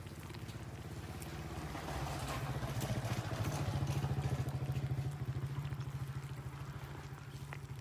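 A small engine running with a rapid pulsing beat, growing louder toward the middle and then fading, as when a motorbike passes by.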